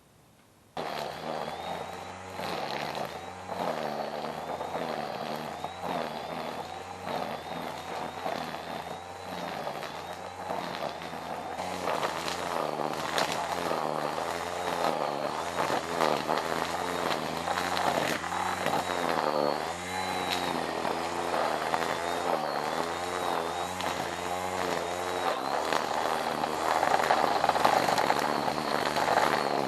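Small petrol engine of a power yard tool running, its speed wavering up and down as it works; it starts abruptly about a second in.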